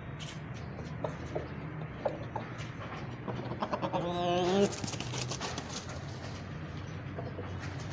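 Aseel chickens: one short pitched call about four seconds in, the loudest sound, over a steady low hum and scattered small clicks.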